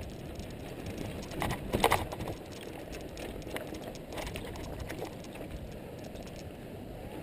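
Mountain bike rolling along a dirt trail: a steady rumble of tyre noise with the bike rattling and clicking over the ground, and a louder clatter of knocks about two seconds in.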